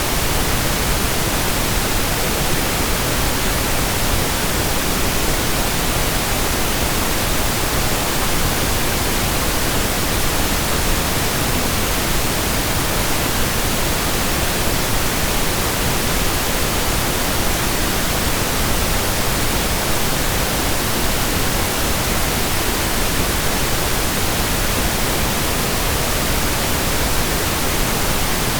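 Steady pink noise: an even, unchanging hiss spread across all pitches, with no tones, clicks or changes.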